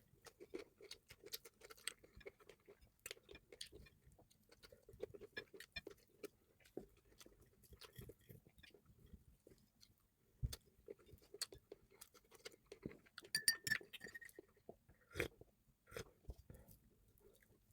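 Faint close-up eating sounds: chewing with many small, irregular clicks and ticks, and a few sharper knocks, the brightest about thirteen and a half seconds in and again about fifteen seconds in.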